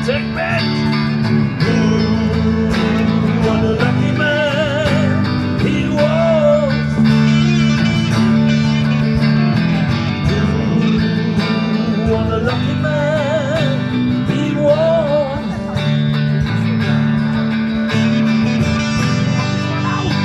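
Guitar music: steady strummed chords under a wavering lead melody line, with no words.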